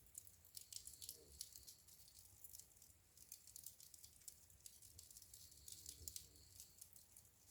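Faint crackling of a wood fire in a fireplace: irregular small snaps and pops, several a second, over a low soft hum.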